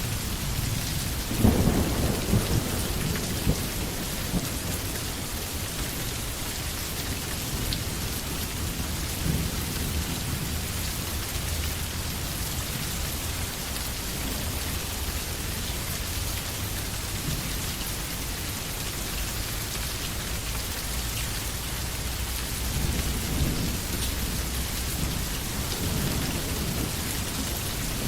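Steady heavy rain falling on forest foliage, with thunder: a sharp clap about a second and a half in that rolls off over a few seconds, and another, softer rumble near the end.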